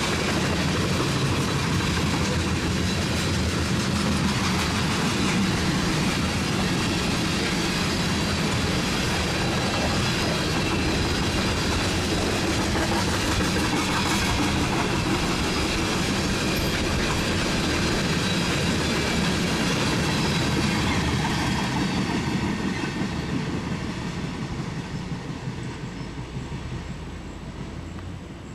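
Loaded tank cars of a long freight train, the CSX ethanol tanker train, rolling past on the track, with wheels running and clacking over the rails. The sound is loud and steady, then fades over the last several seconds as the train draws away.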